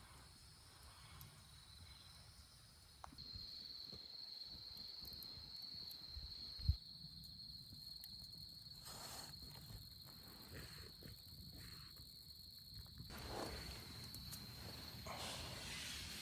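Steady high-pitched insect trill, as of crickets, that grows stronger about three seconds in, with a single low thump about seven seconds in.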